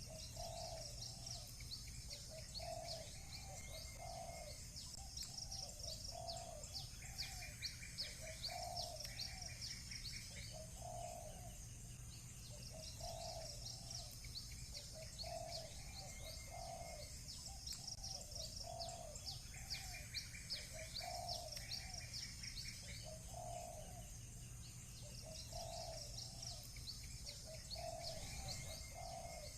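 Village birds chirping in quick repeated phrases, with a couple of short trills, over low cooing calls that recur about every second. A faint steady low hum sits underneath.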